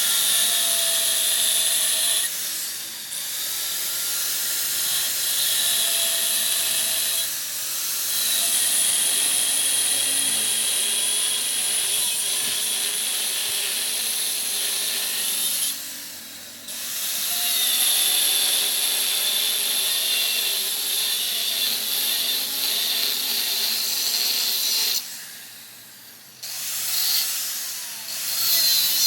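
A power tool running in long stretches, with a high whine over a hiss. It breaks off briefly three times, then for a longer pause near the end.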